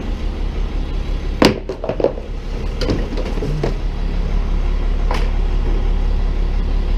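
Scrap car-body parts clattering as they are tossed into a trash bin: one loud knock about one and a half seconds in, then a few lighter ones. Underneath, a vehicle engine hums steadily at idle.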